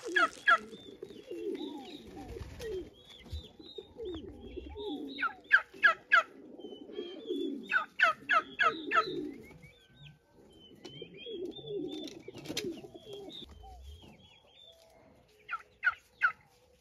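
Birds calling: a run of low, wavering notes, with short bursts of three to five quick high chirps several times over.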